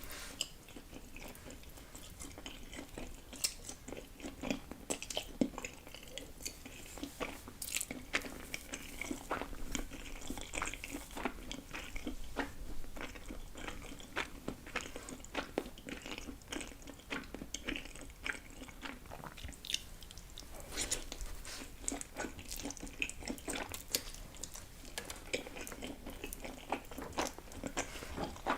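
Close-miked chewing and biting of food, with many small irregular crunchy clicks and wet mouth sounds.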